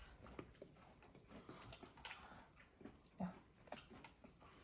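Near silence at a dinner table: faint scattered clicks of cutlery and dishes, with one short low murmur about three seconds in.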